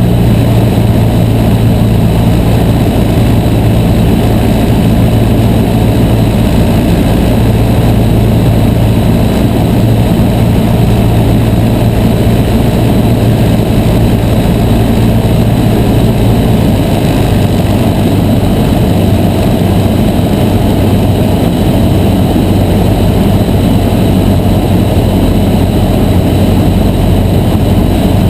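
Cessna 152's four-cylinder Lycoming piston engine and propeller heard from inside the cockpit, running steadily. About sixteen seconds in the engine note drops slightly as power is reduced on the approach.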